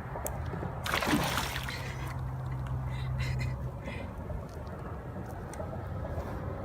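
A brief burst of water splashing about a second in, as a freshly caught Florida gar thrashes at the canoe's side, followed by a low steady hum lasting a couple of seconds.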